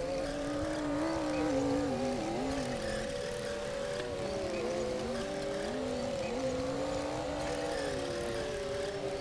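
Komatsu D60P bulldozer's diesel engine running under varying load as it pushes soil, its pitch rising and falling again and again.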